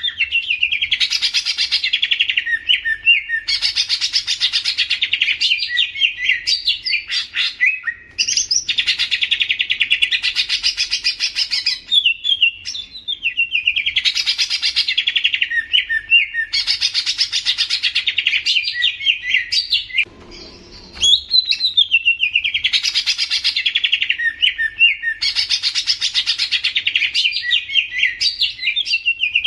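Leafbird (cucak ijo) singing a loud, fast, chattering song in repeated phrases of about two seconds each, with short pauses between them and a longer break about twenty seconds in.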